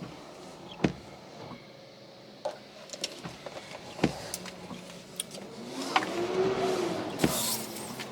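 Inside a car on the move in the rain: a low steady background with scattered sharp clicks and knocks, and a short whine that rises and then falls in pitch near the end.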